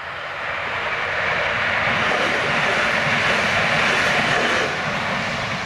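Croatian Railways passenger train passing at speed: an even rushing noise that swells, peaks in the middle and fades away near the end.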